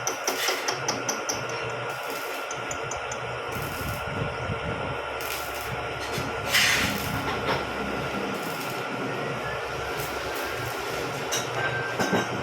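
Vertical milling machine running, a steady mechanical noise with a constant high whine, cutting a spur gear blank. A louder brief scrape about six and a half seconds in, and a few knocks near the end.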